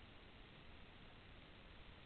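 Near silence: a faint, steady hiss of background noise with no distinct events.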